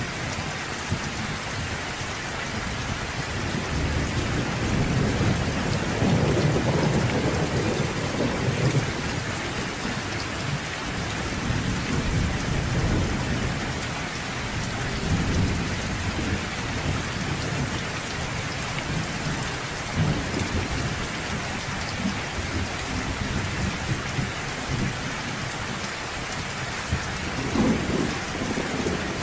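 Steady rain falling with low, rolling thunder that swells from about three seconds in and again near the end.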